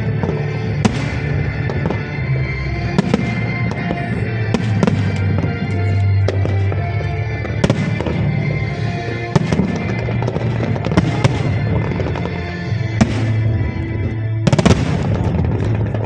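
Fireworks show: aerial shells bursting with repeated sharp bangs and crackle, over continuous music with a heavy bass. The loudest cluster of bursts comes near the end.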